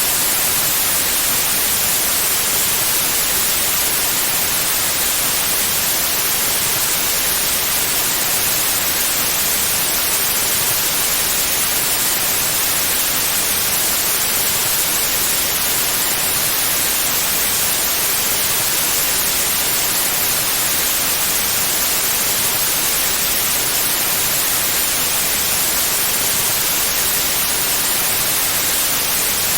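Steady, loud white noise: an even, unbroken hiss that is brightest in the high end, with no changes or events.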